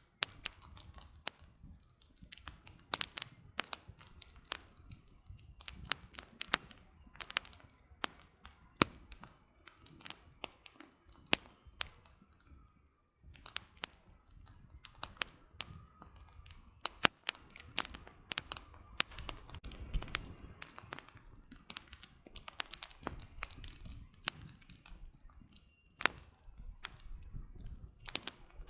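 Wood fire burning, firewood crackling and popping in irregular sharp snaps over a low rumble of flames, with a brief lull about halfway through.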